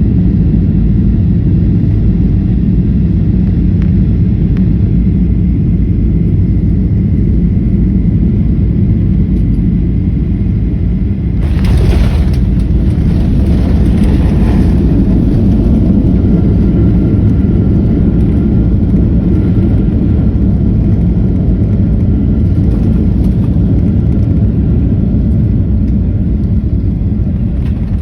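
Steady heavy rumble of a landing Ryanair jet airliner. About eleven seconds in, a sudden louder rush of noise comes in for three or four seconds, then the rumble carries on.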